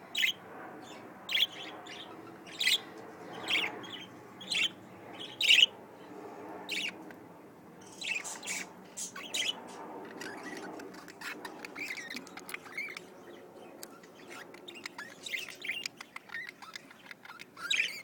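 Budgerigars chirping: a string of short, sharp chirps about once a second for the first seven seconds, then softer, quicker chattering and warbling.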